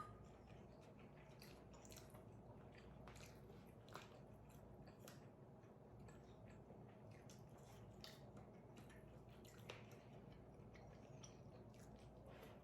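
Faint eating sounds: chewing and wet mouth noises, with scattered small irregular clicks over a low steady hum.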